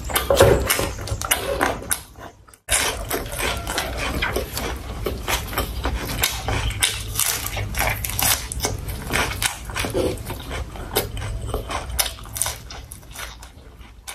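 Close-miked eating sounds: a person chewing food, a dense run of wet clicks and crunches, over a steady low hum.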